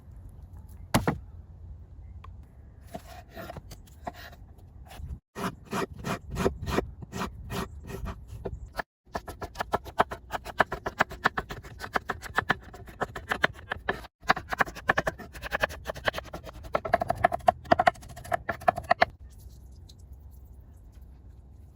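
Knife chopping on a wooden board in quick, rhythmic runs of strikes, several a second, with a single louder knock about a second in; the runs break off abruptly three times.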